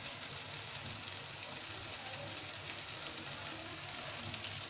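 Food frying in hot oil: a steady sizzling hiss with small crackles.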